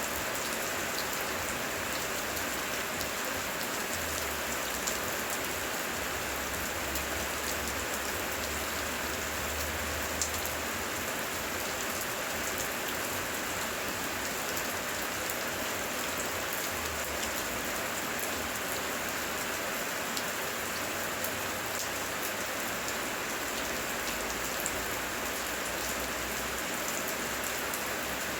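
Heavy, steady rain, a dense hiss of falling water dotted with the sharp ticks of single drops. A faint low rumble swells in about four seconds in and again around seventeen seconds in.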